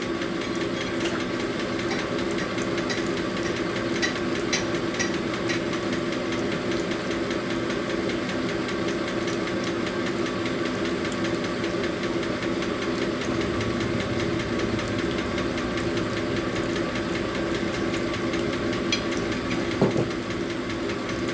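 Honing machine running steadily with a constant hum as a connecting rod's bore is honed on the spinning stone.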